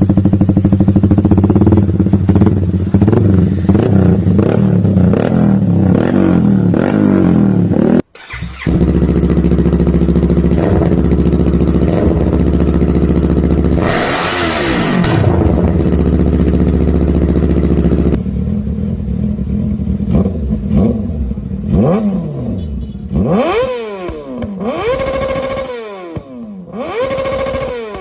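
Superbike engines, one after another in separate clips: first a steady running note, then a deeper, louder engine with one hard rev, then a bike revved in several quick blips that rise and fall in pitch. The sound cuts abruptly between clips, about 8 and 18 seconds in.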